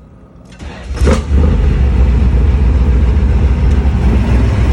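Camaro IROC-Z's 383 stroker V8 starting through a GMMG cat-back exhaust: it cranks briefly and catches about a second in with a quick rev flare, then settles into a loud, steady, deep idle.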